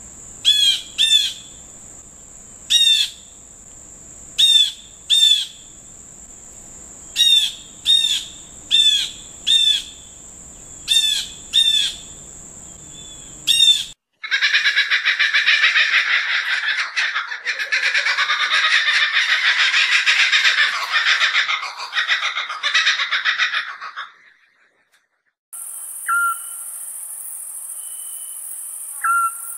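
Birdsong in three separate recordings. First come short, sharp calls repeated about once a second over a steady high insect drone. Then about ten seconds of dense, continuous chattering song, which stops suddenly. Last comes a high, steady insect buzz with two short calls.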